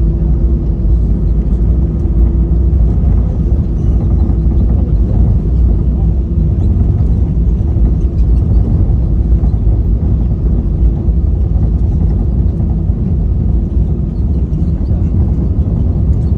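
Airbus A320 cabin noise heard from a window seat: the jet engines and airframe make a loud, steady low rumble with a steady hum running through it.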